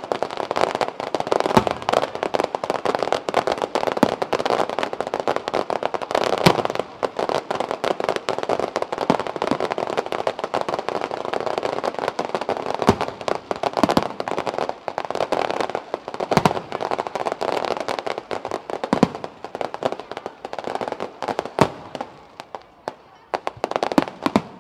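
Fireworks display: a dense, continuous crackle with frequent sharp bangs of shells bursting. The crackle thins out shortly before the end, when a few loud bangs stand out.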